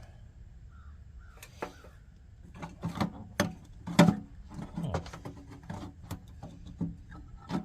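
Parts being handled inside an opened forced-air heater housing: a run of scattered clicks and knocks, the loudest about four seconds in.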